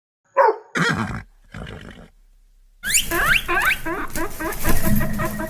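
A dog barks once at the start, followed by loud animal calls: a rough call about a second in, then a longer call from about three seconds in that opens with falling high glides and breaks into a quick pulsing trill.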